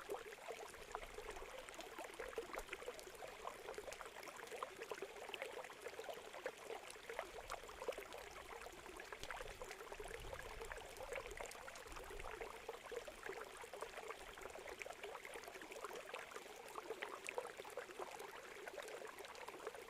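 Campfire crackling beside a flowing river: a steady rush of running water with many small, sharp pops from the burning wood scattered through it.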